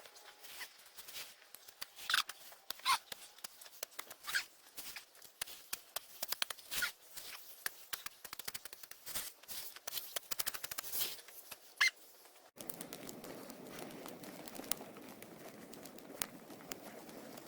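Dry sticks and leaf litter crunching and snapping in quick, irregular cracks, as someone walks over and gathers firewood. About twelve seconds in it cuts off suddenly, giving way to a steady rushing noise.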